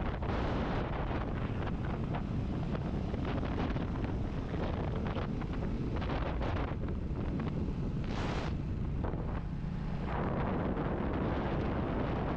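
Wind rushing and buffeting over the camera microphone while riding, with the Royal Enfield Classic 350's single-cylinder engine running steadily underneath. A brief louder hiss comes through about eight seconds in.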